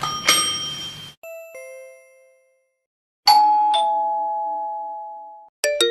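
A string of separate doorbell sound effects. First comes a short bright ring. Then a two-note ding-dong chime falls in pitch, followed by a louder ding-dong whose lower second note rings on for nearly two seconds. Near the end come the first quick notes of another chime.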